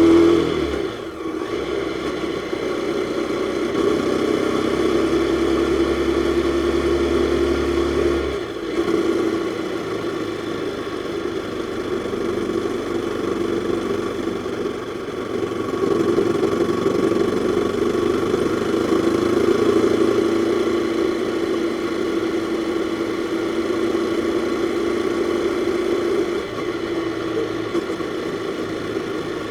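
Jawa 42's single-cylinder four-stroke engine running while the motorcycle is ridden, its note holding steady for long stretches with brief dips and pitch changes about a second in and again about eight seconds in.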